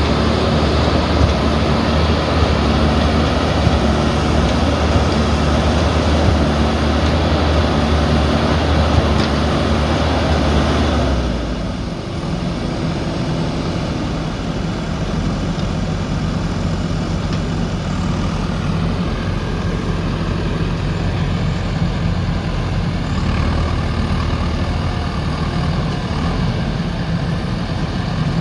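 JCB backhoe loader's diesel engine running hard, then dropping suddenly to lower revs about eleven seconds in and running on more steadily, picking up slightly near the end.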